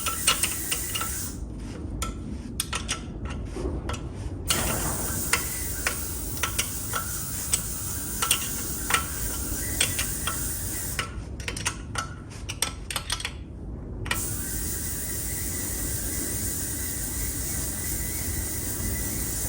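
Light metallic clicks and taps of a spanner working on a brake-line fitting as it is gently tightened, over a steady background hiss.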